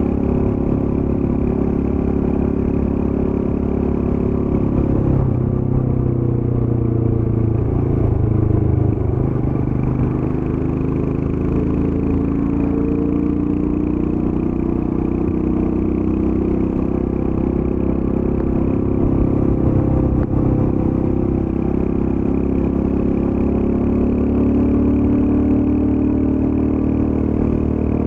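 Royal Enfield Scram 411's air-cooled single-cylinder engine running through its stock exhaust while ridden at an easy pace. Its note dips and shifts about five to nine seconds in, then runs steady.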